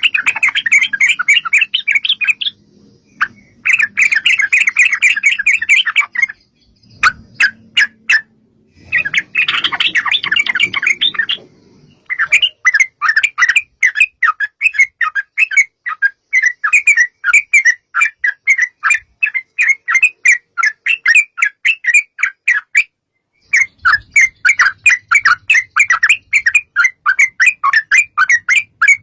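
Yellow-vented bulbul (trucukan) calling: short bursts of fast chattering, then from about twelve seconds in a long run of quick repeated notes, about three a second, broken by a brief pause near the end.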